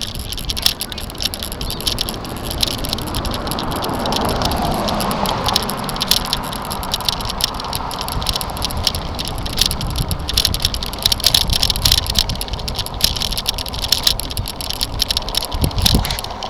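Bicycle and its mounted camera rattling with fast, irregular clicks while riding down a hill over a bumpy road, with wind rushing past the microphone and a low road rumble; the wind is strongest a few seconds in.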